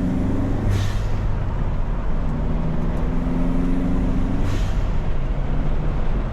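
Turbocharged Kia Forte GT engine pulling under throttle twice. Each pull ends, as the throttle closes, in a short 'psh' from the GFB Mach 2 recirculating valve releasing boost: once about a second in, and again about four and a half seconds in.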